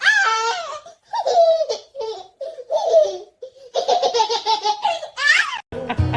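A baby laughing in a series of short, high-pitched bursts, with a quick run of rapid giggles about four seconds in. Music starts just before the end.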